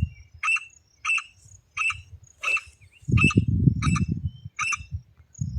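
Teetar (francolin/partridge) call repeated rapidly, a short note about every half second, as used to call the birds in. A low rumble runs under the calls from about halfway through.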